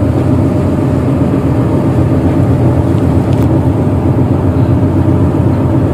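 Tugboat's diesel engine running steadily: a loud, even low rumble with no change in pitch.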